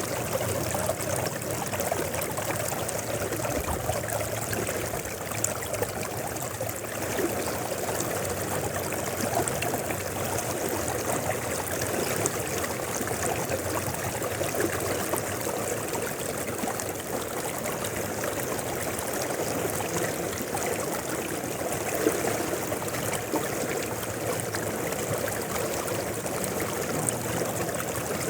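Mountain river flowing: a steady rush of water with many small splashes and trickles.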